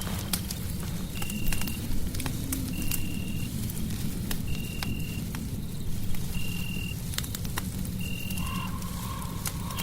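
Fireplace crackling with scattered sharp pops over a steady low rumble. A short, high, steady call, frog-like, repeats about every second and a half, six times. A lower steady tone joins about eight seconds in.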